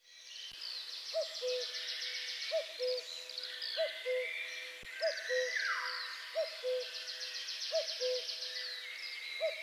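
Woodland birdsong: one bird repeats a two-note hooting call, a short higher note followed by a longer lower one, about once every 1.3 seconds, while other songbirds trill and chirp higher up.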